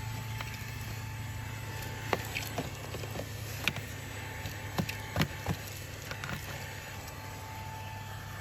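Fanttik V8 Apex handheld cordless vacuum running steadily with a low hum and a thin whine, while about half a dozen sharp clicks and knocks come in the middle seconds.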